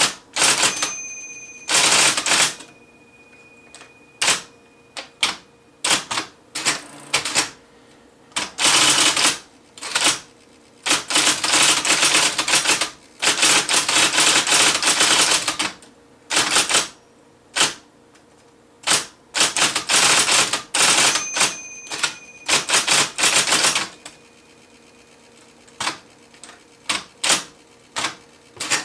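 IBM Selectric III electric typewriter being typed on in runs of rapid keystrokes, some lasting several seconds, with short pauses between them. A steady motor hum runs underneath and is plain in the pauses.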